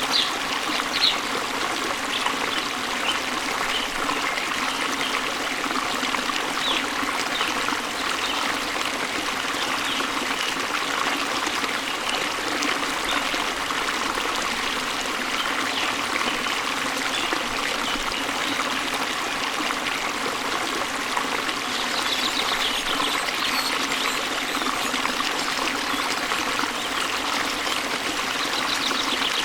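Waterfall water falling and flowing in a stream, a steady even rush. Faint short high bird chirps come through now and then, most around the start and again after about twenty seconds.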